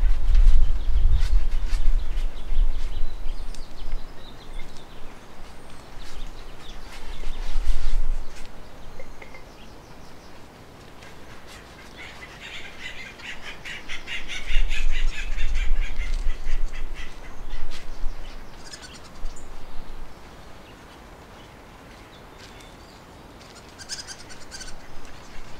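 Wild birds calling outdoors: a rapid chattering trill about halfway through and a short high chirp near the end, with low rumbles at the start and in the middle.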